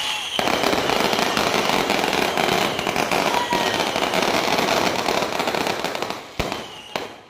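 Fireworks display: a dense, continuous crackling barrage of aerial shells bursting overhead, with a single sharp bang about six seconds in before the noise dies down near the end.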